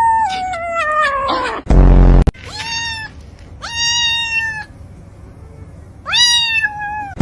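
A domestic cat meowing in long, drawn-out calls. A first call falls in pitch, then three more follow with gaps of about a second or more. A short, very loud buzzy burst comes about two seconds in.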